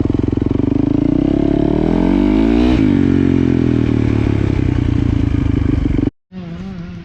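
Dirt bike engine running close by, revved up over a couple of seconds and then settling back down. The sound cuts off abruptly about six seconds in and comes back much quieter.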